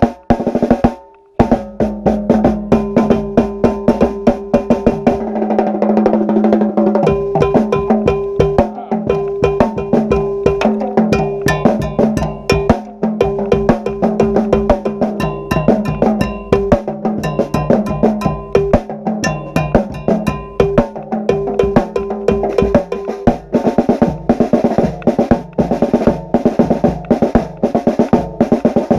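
Drum ensemble of snare drums, bass drums and pitched drums playing a fast, dense rhythm. It breaks off briefly about a second in, then plays on without a pause.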